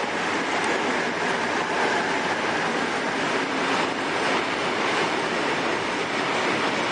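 Class 56 diesel locomotive 56087 passing close with a freight train, then its wagons rolling by: a steady, unbroken train noise.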